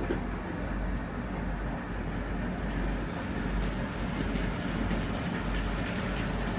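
Kühn TT-scale model of a T478.1 diesel locomotive running on the layout, a steady mechanical running noise with a low hum.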